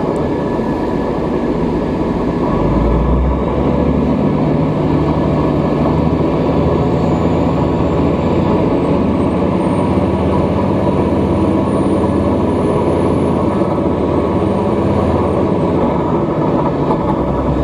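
Tobu Kinugawa Line train pulling out of a station and gathering speed, heard from inside the carriage: a steady rumble of motors and wheels, with a faint high whine that rises and then falls in the middle.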